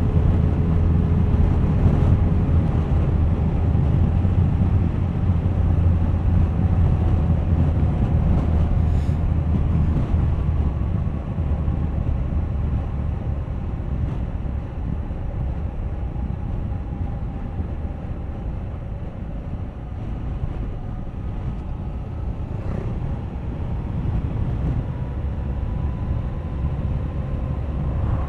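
Suzuki GSX1250FA's inline-four engine running under way on the road. It eases off about ten seconds in and picks up again near the end.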